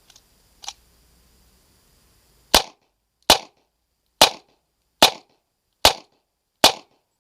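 USFA Zip 22 pistol firing .22 LR Remington Thunderbolt rounds: two faint clicks, then six sharp shots in steady succession about 0.8 s apart, starting about two and a half seconds in.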